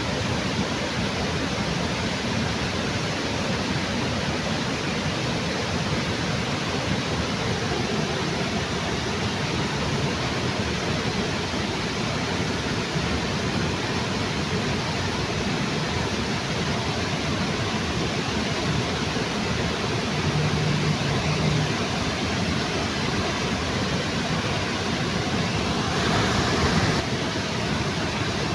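Waterfall rushing steadily under a bridge, with a brief louder swell near the end.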